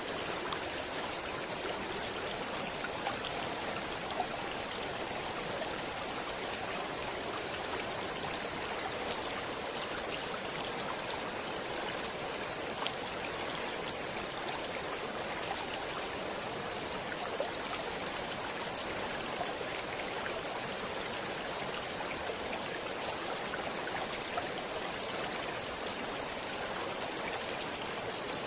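A stream flowing steadily: an even rush of water with small, scattered splashes and drips through it.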